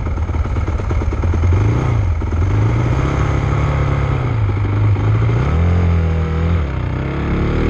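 Motocross bike engine running under a rider, revving up and easing off repeatedly so its pitch rises and falls several times, climbing again near the end.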